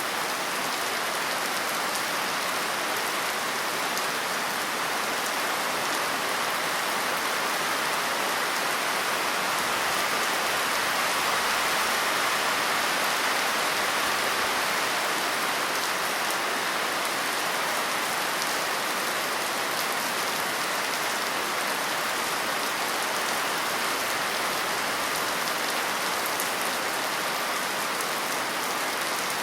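Steady rain falling on a surface, a continuous even hiss with fine drop ticks and no thunder.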